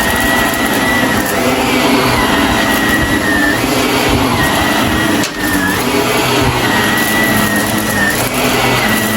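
Shark vacuum cleaner running while vacuuming, a steady motor whine with rushing air, the whine dipping briefly in pitch every second or two. A short drop in loudness comes about five seconds in.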